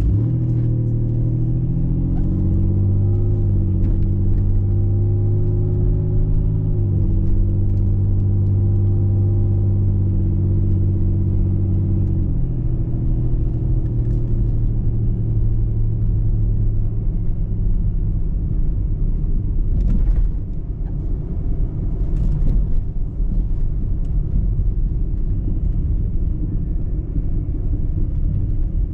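Car driving: an engine hum that steps in pitch several times over the first twelve seconds, then fades into a steady low road rumble. Two short knocks sound about twenty and twenty-two seconds in.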